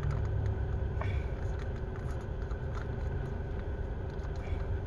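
Steady low rumble with a thin constant hum, heard from inside a car's cabin, as of the car's engine idling.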